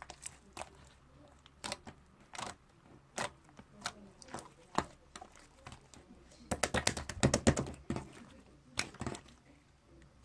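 Slime being pressed and squished by hand, making sharp sticky clicks and pops: scattered single clicks at first, then a quick run of clicks about six and a half seconds in.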